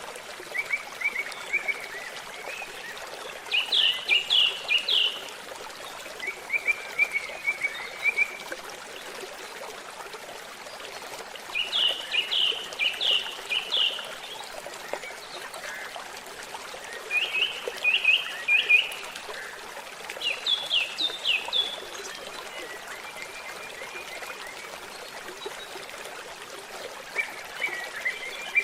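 A babbling stream running steadily, with birds singing short runs of quick, high chirps every few seconds.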